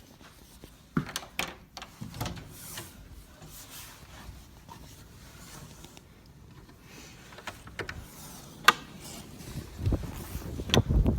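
Blizzard wind buffeting the microphone, growing louder near the end, with scattered sharp clicks and rubbing.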